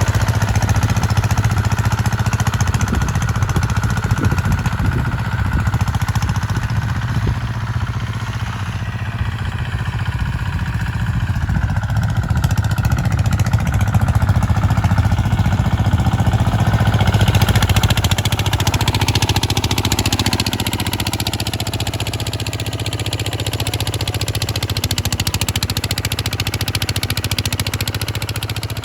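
Kubota RT140 single-cylinder diesel engine running steadily with a fast, even beat. More high-pitched clatter joins from about halfway through.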